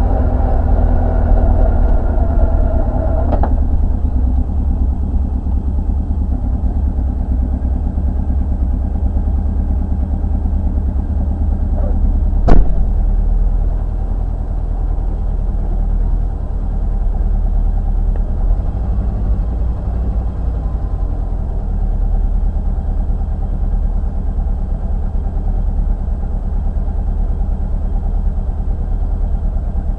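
1972 Toyota Celica 2.0GT's 16-valve engine running, heard from inside the cabin, as the car creeps forward and then idles steadily from about three seconds in. A single sharp click about halfway through.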